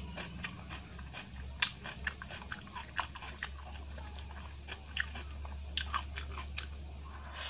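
Close-miked eating sounds: a mouthful of rice and vegetable curry being chewed, with irregular wet smacks and clicks, the sharpest about one and a half seconds in. A steady low hum runs underneath.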